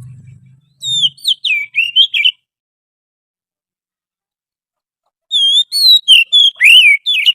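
Oriental magpie-robin song: two loud phrases of quick, gliding whistled notes, the first about a second and a half long and the second about two seconds long, with a pause of a few seconds between them. This is a recorded lure call of a wild bird.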